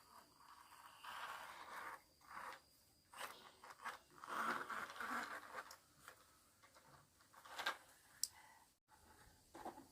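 Irregular rustling and scraping in short bursts, the longest and loudest about halfway through, with a couple of sharp clicks later on.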